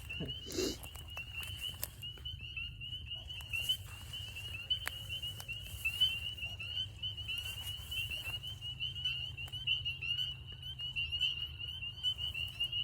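Chorus of spring peepers, many high-pitched peeps overlapping into one unbroken shrill band, with a few faint clicks underneath.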